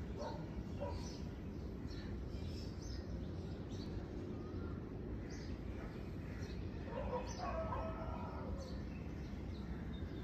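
Birds calling outdoors: short high chirps repeating over a steady low rumble, with a longer, fuller call about seven seconds in.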